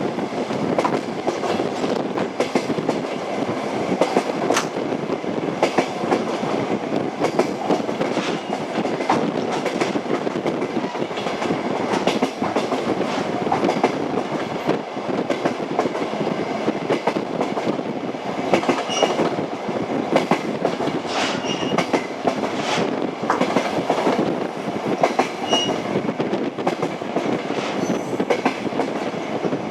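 Passenger train wheels clicking over the rail joints of jointed track: a steady rolling rumble with repeated clickety-clack knocks as the wheelsets cross each joint.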